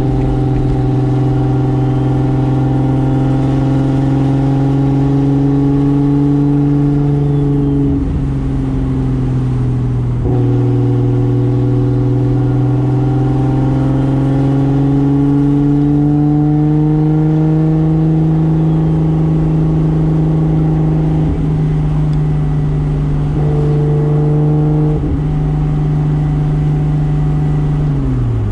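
Toyota Soarer's single-turbo 2JZ straight-six running under load, its pitch climbing slowly and steadily. The sound breaks briefly for gear changes about eight, ten, twenty-one and twenty-five seconds in, and the revs fall away right at the end.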